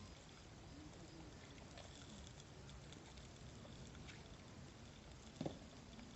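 Faint crackling of a garbage fire, with scattered light ticks and one sharp pop about five seconds in.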